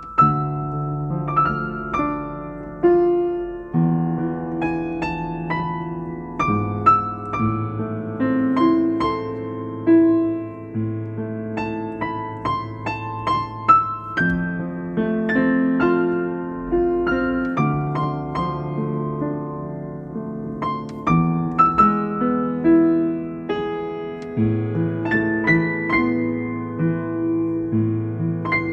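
Solo piano music: a slow melody of single struck notes over low bass notes held for a few seconds each.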